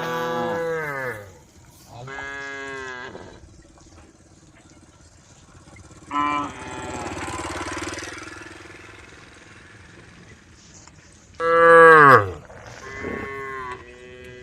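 Several cows mooing, one call after another, each dropping in pitch, with the loudest moo near the end and a hoarse, breathy call in the middle.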